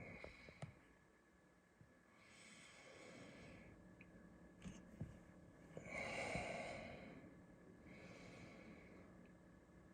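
Faint breathing close to the microphone: three soft breaths, the middle one loudest, with a few small clicks.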